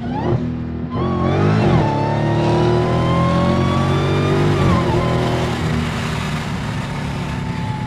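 Supercharged 6.2-litre HEMI V8 of a Stage 1 Direct Connection–tuned Dodge Hellcat Jailbreak, heard from inside the cabin, accelerating hard. Its pitch jumps up about a second in and climbs steadily for about four seconds. Then it drops sharply and the engine settles into a lower, gradually easing run.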